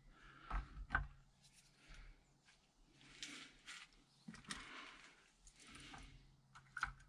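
Light knocks and clinks as a corroded motorcycle brake caliper and its parts are handled, with a few short scraping sounds in between.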